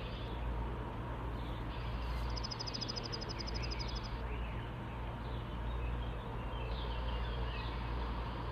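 Birds singing outdoors, with short chirps throughout and a rapid high trill of about a dozen notes a second lasting nearly two seconds, over a steady low rumble.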